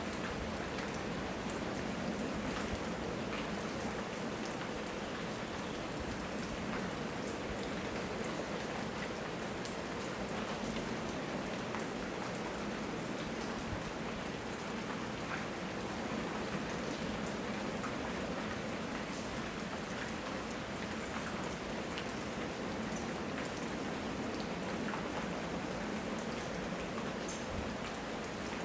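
Steady rainfall, with individual drops ticking on surfaces, recorded on a phone microphone.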